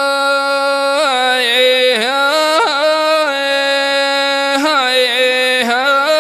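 A single voice singing al-wanna, traditional chanted Arabian poetry: one long held note, ornamented with quick melismatic turns about a second in, twice more around the middle, and again near the end, without pause for breath.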